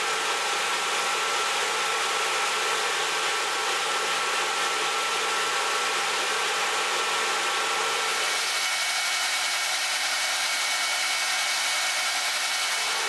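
A power tool running steadily with a hissing whine, its tone changing about eight and a half seconds in.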